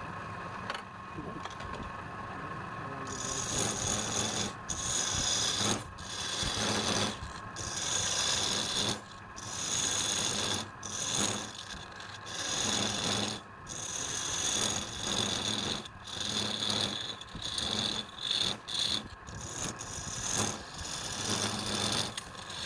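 Wood being worked by hand with an abrasive or rasping tool, rubbing in repeated strokes of about a second each with short pauses between them. The strokes begin about three seconds in, after a quieter, steadier stretch.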